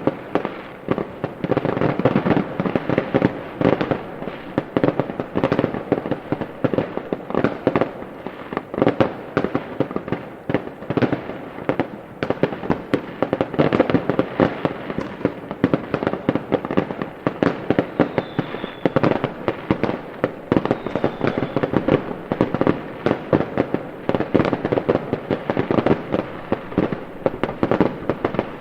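Fireworks going off in a continuous rapid barrage, many bangs and crackles a second, with no let-up.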